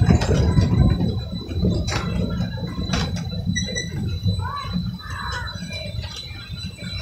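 Narrow-gauge train rolling along the track, heard from aboard a passenger car: a low rumble with a few sharp clacks and a thin steady high whine, easing off gradually.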